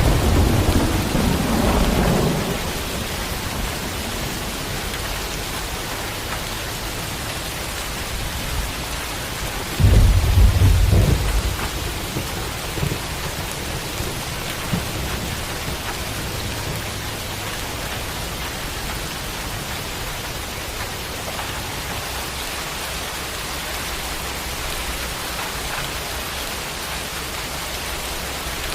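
Thunderstorm: steady rain hissing throughout, with thunder rumbling and dying away over the first couple of seconds, then a sudden loud peal of thunder about ten seconds in that rumbles for a second or two, followed by a few fainter rumbles.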